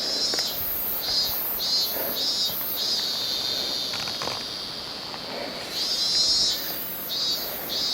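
Insect singing high and shrill in a pulsing rhythm of about three pulses a second, breaking into longer unbroken stretches around three seconds in and again near the end.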